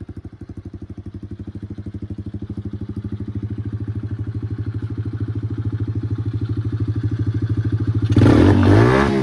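A 110cc junior quad bike's small four-stroke engine idling with a steady, rapid putter. About eight seconds in it is revved briefly, the pitch rising and then dropping back.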